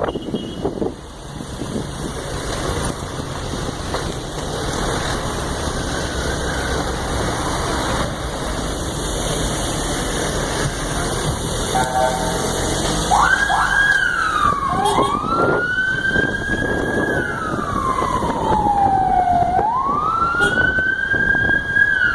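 Wind on a phone microphone and traffic noise from a moving bicycle. About thirteen seconds in, an emergency vehicle's wailing siren starts, rising and falling slowly with a few seconds per sweep.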